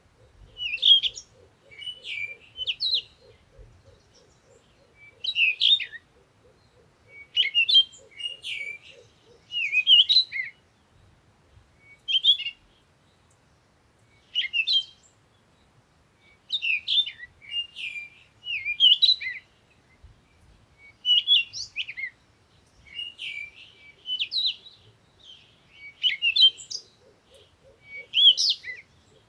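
Birds chirping in short, twittering high phrases repeated every second or two. A faint, low, evenly pulsed tone runs under them for the first third and returns near the end.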